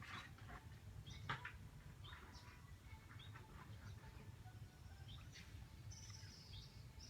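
Faint small-bird chirps: a scattering of short high chirps that drop in pitch, then a longer high whistled call near the end.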